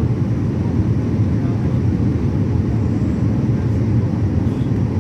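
Steady low drone of an airliner in flight, engine and airflow noise heard from inside the passenger cabin.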